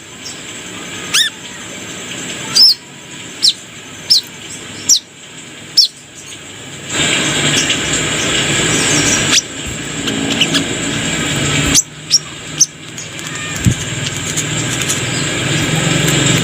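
Brown-throated sunbird (kolibri kelapa) calling: about ten sharp, high, short chirps, each a quick slurred whistle, spaced irregularly, over a steady background hiss.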